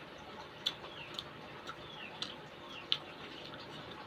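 Close-up eating sounds: wet mouth clicks and smacks while chewing, a sharp click every half second or so, some with a short squeaky tail.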